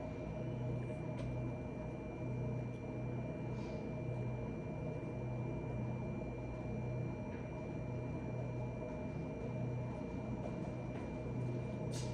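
Steady low hum that swells and eases every couple of seconds, with a thin high whine and a few faint light clicks: room tone from a running appliance or fan.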